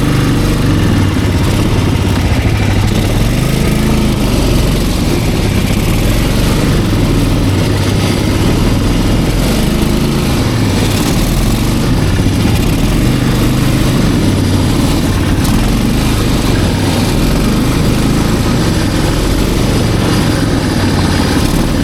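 Snowmobile engine running steadily at a loud, even level.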